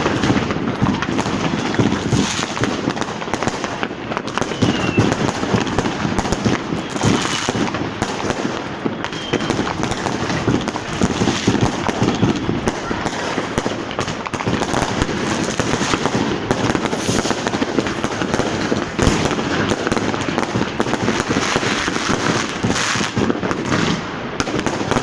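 Fireworks going off continuously in a street: a dense, unbroken mix of firecracker bangs and crackling, with a few short whistles rising in pitch around the middle.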